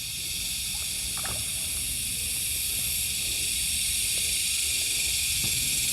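Steady high-pitched buzzing hiss of insects, growing slowly louder.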